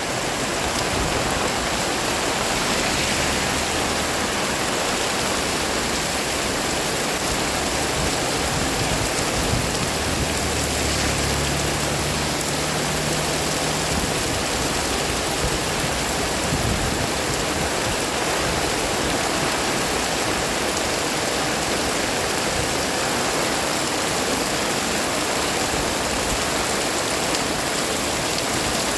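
Heavy rain pouring steadily: a dense, unbroken hiss of rain on surfaces.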